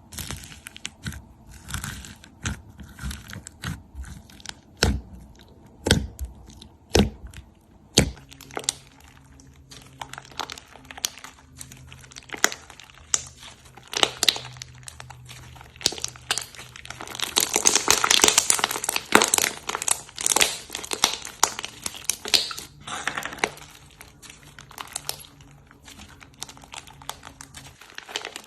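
Slime being squeezed and pressed by hand, crackling and popping. It starts with a run of separate sharp snaps and pops, then turns to dense, crinkly crackling that swells to its loudest around the middle.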